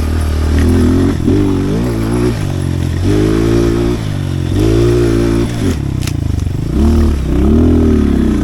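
Pit bike's small single-cylinder engine being ridden hard, revving up and falling back about six times as the throttle is opened and closed. A brief sharp click about six seconds in.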